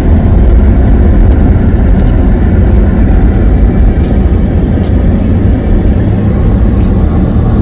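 Car driving along a road: a steady low rumble of engine and tyres, with a few faint light clicks or knocks.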